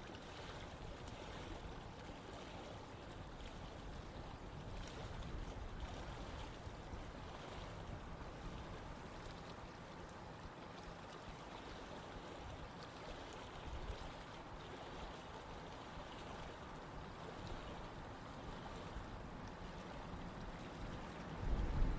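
Flowing water rushing steadily, with a louder low rumble coming in shortly before the end.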